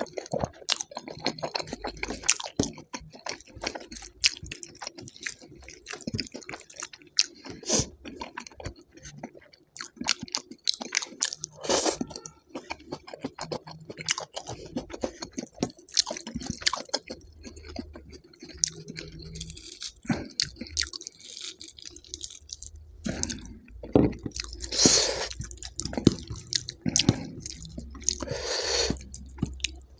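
Close-miked, wet chewing of a mouthful of rice and dal, with irregular mouth clicks and smacks and now and then a crunch.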